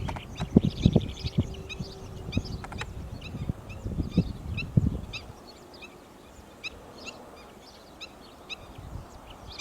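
Birds calling: short high chirps repeat every half second or so throughout. Over the first five seconds they sound over a series of low thuds and deeper calls, which then stop, leaving the chirps alone.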